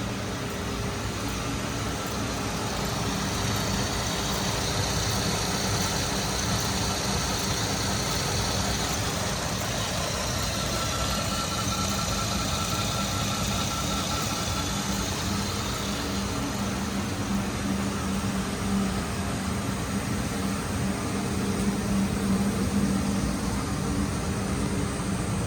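2009 Saturn Outlook's 3.6-litre V6 engine idling steadily.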